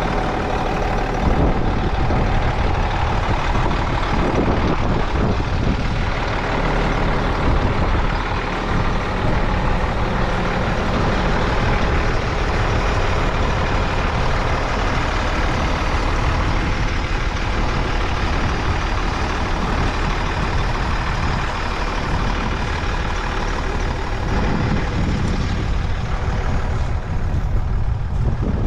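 Heavy diesel harvest machinery running steadily and loudly: a continuous engine drone with a layered mechanical hum over a deep rumble.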